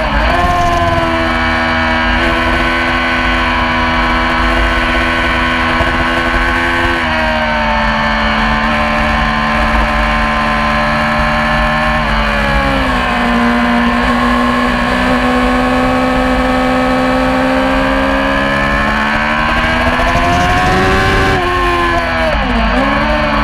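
Yamaha R6 600cc inline-four sport-bike engine running hard under race load, holding a high, steady pitch for several seconds at a time. Its pitch drops sharply about a third of the way in, dips and climbs again just past halfway, and again near the end.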